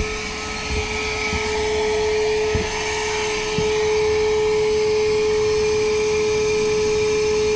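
Wet/dry vacuum running steadily with a constant whine, drawing water out of a clogged condensate drain line. A few light knocks come in the first few seconds, and it gets slightly louder about three and a half seconds in.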